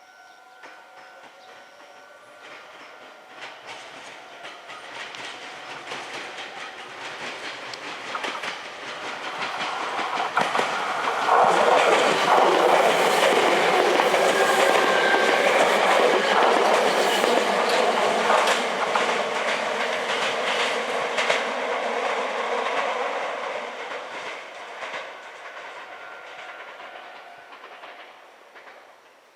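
Meitetsu 3500-series four-car electric train accelerating away and passing by: its motor whine rises in pitch at first, and the wheels clatter over rail joints. It grows loud about ten seconds in, then fades out over the last several seconds.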